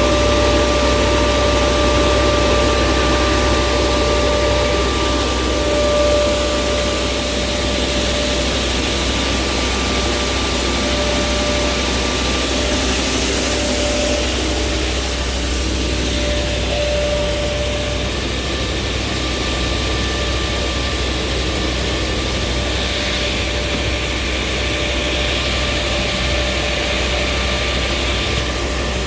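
Pneumatic grain vacuum conveyor running: a steady low drone with a constant high whine over a rushing hiss of air.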